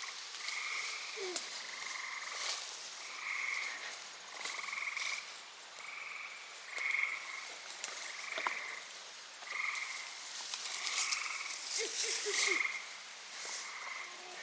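A chorus of frogs calling: short trilled calls, each about half a second long, repeated about once a second by more than one frog. A few faint clicks and rustles sound underneath.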